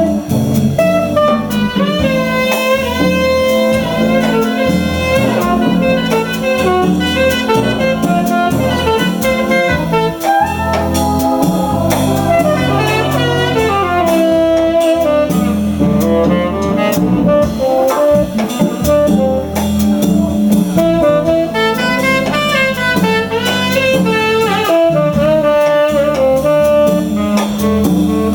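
Jazz combo playing an instrumental solo: a saxophone carries the melody over bass and drum kit.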